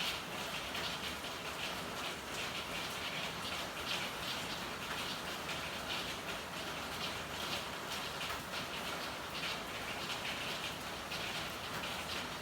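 Steady rain falling, with a dense, irregular patter of individual drops over an even hiss.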